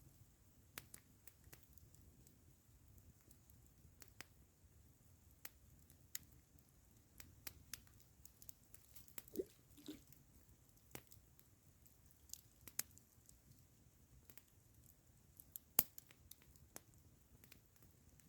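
Wood campfire crackling faintly: sparse, irregular sharp pops and snaps, the loudest one late on.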